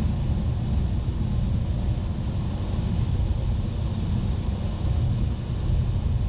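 Cessna 172 piston engine and propeller droning steadily inside the cockpit, with airflow noise, at approach power on short final with full flaps.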